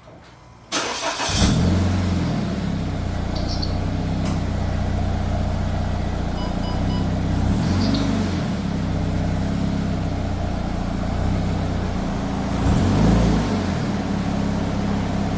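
Toyota 86's flat-four boxer engine and exhaust starting up about a second in, then idling steadily. The engine is revved lightly twice, once midway and more strongly near the end.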